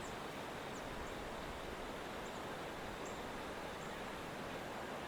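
Steady rush of river whitewater below, with a few faint high chirps scattered through it.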